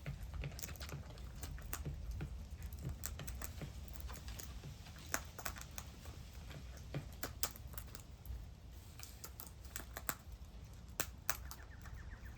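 Birds at a feeder tapping and pecking: irregular sharp clicks, a few louder ones, over a low steady rumble.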